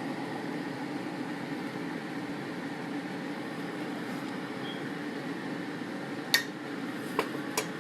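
Steady kitchen hum with three sharp utensil clinks near the end, the first the loudest.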